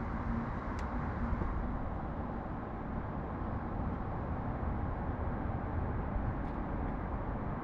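Steady low rumble of city traffic, with a single faint tick about a second in.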